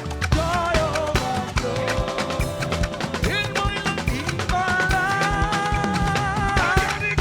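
Live gospel praise band playing an upbeat number, with steady drums and bass under a long-held, wavering melody line.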